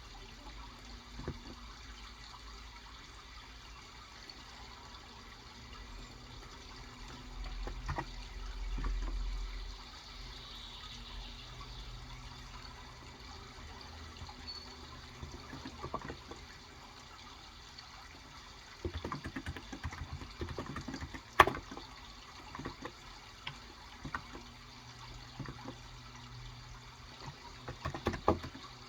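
A steady run of flowing water, with scattered keystrokes on a Cox Endeavor electrocapacitive (Topre-style) 35 g keyboard. The keystrokes come in short bursts in the second half, with one sharper clack about two-thirds of the way through.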